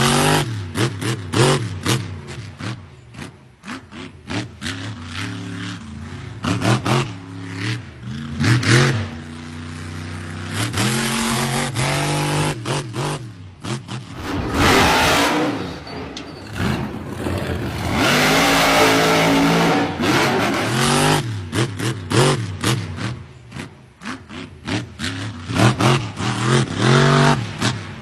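Big truck's engine revving, its pitch rising and falling again and again, with many sharp clicks or pops through it.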